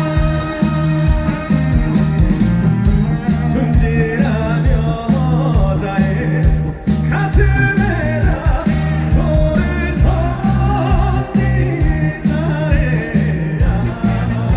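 Upbeat trot song performed live: a male singer's voice over a full backing band with bass, drums and guitar, the voice entering about four seconds in.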